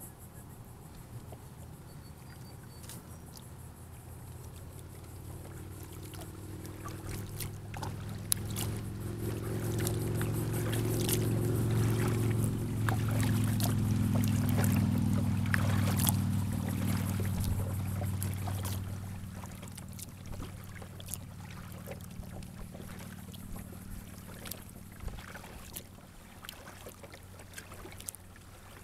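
Water dripping and splashing around a kayak, over the low hum of a distant engine that swells from about four seconds in, is loudest in the middle and fades away by about twenty seconds.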